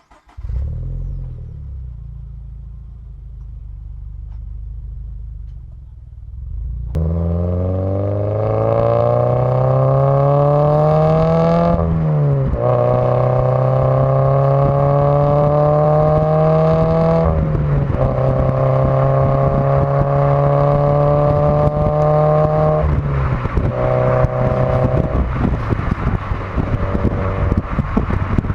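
Toyota 86/Subaru BRZ flat-four engine through a decatted headers-and-resonator-delete exhaust, doing a full-throttle pull through the gears. After several seconds of low running, the note climbs steadily from about seven seconds in, drops at an upshift near twelve seconds, climbs again, drops at a second upshift near seventeen seconds, then holds nearly level until the throttle is lifted near twenty-three seconds, leaving a rough rumble with road noise.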